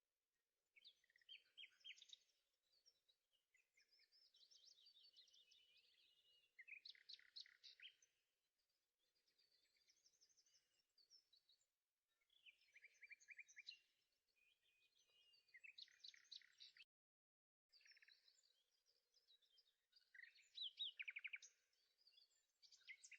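Faint birdsong: a songbird singing short chirped and trilled phrases, one after another with brief pauses.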